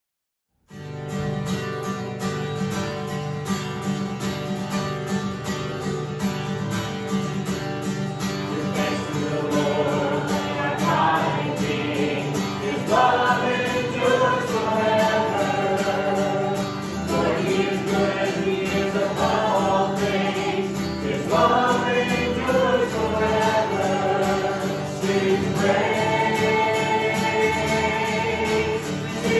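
Worship music: an instrumental accompaniment starts suddenly about a second in, and a group of singers joins about a third of the way through.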